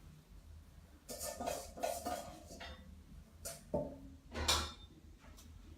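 Kitchen pots, dishes and utensils being handled, knocking and clinking: a quick run of clatter about a second in, then a few single knocks, the loudest past the middle.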